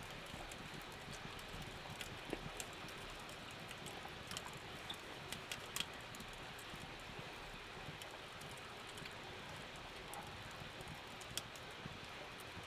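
Steady rain with irregular taps and ticks of drops.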